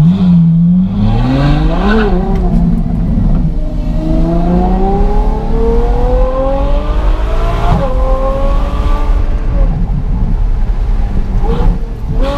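Ferrari F12's naturally aspirated V12 through an aftermarket valved exhaust with the valves open, accelerating hard. The engine note rises briefly about two seconds in, then climbs steadily for several seconds, drops sharply at an upshift about eight seconds in, and climbs again.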